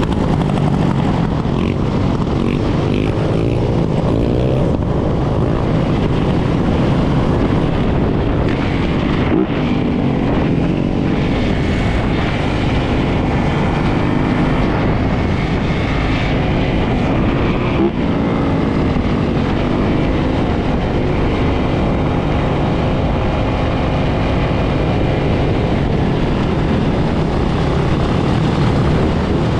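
Many dirt bike and ATV engines running together, several revving at once so that pitches overlap and keep rising and falling.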